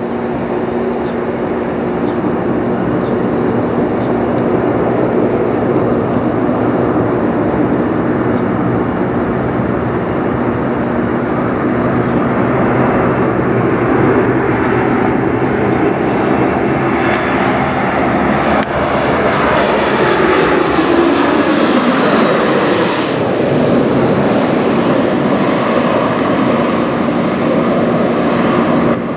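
Boeing 737 MAX 8 jet airliner flying over on its approach to land, its CFM LEAP-1B turbofan engines running with a steady hum and a whine that builds. The pitch drops as it passes overhead about three-quarters of the way through.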